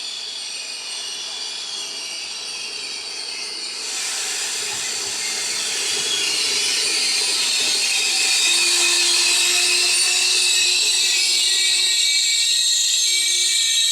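A train at the station with a high-pitched metallic squeal and hiss from its wheels or brakes, growing louder about four seconds in and staying loud.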